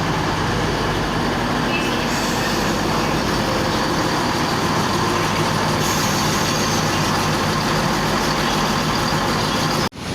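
Diesel train engines running steadily at the platform, a continuous hum with a faint engine drone. It cuts off suddenly near the end.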